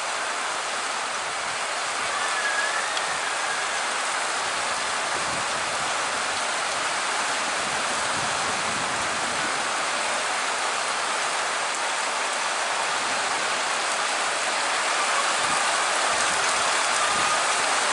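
Steady rain falling with an even hiss.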